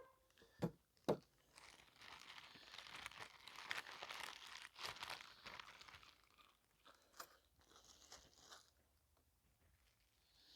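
Close handling noises: two or three sharp knocks in the first second, then a few seconds of crinkling, rustling handling, then scattered small clicks.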